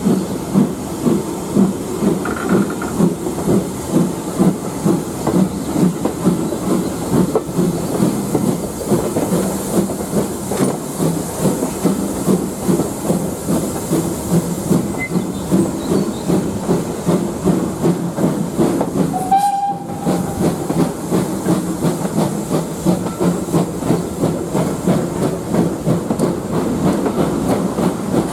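Steam train on the move, with a steady rhythmic beat of about one and a half to two beats a second over a hiss. A brief higher tone sounds about two-thirds of the way through.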